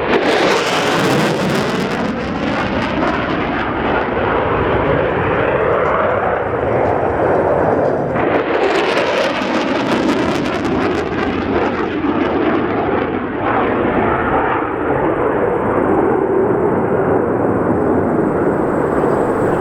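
Jet noise from a Boeing EA-18G Growler's twin General Electric F414 turbofans, loud and continuous. The sound surges twice with a harsh hiss, right at the start and about eight seconds in, and the pitch sweeps as the jet moves.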